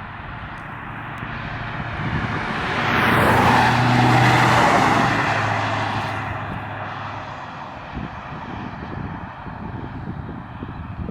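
1993 Ford Mustang Cobra SVT's 5.0-litre V8 driving past: engine and tyre noise build to a peak about four seconds in, then fade as the car moves away.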